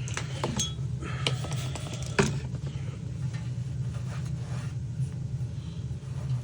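A few sharp clicks and clinks of small metal parts being handled, the loudest about two seconds in, over a steady low hum.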